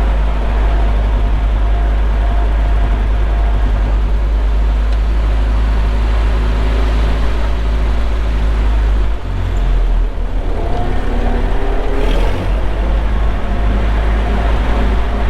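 Vintage farm tractor engine running steadily under way, with heavy wind rumble on the microphone. About nine seconds in the engine note dips briefly, then climbs in pitch as it picks up speed.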